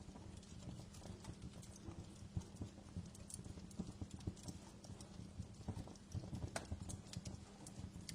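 Wood fire crackling, with irregular small snaps and pops and soft low thuds over a faint hiss. A steady low hum runs underneath.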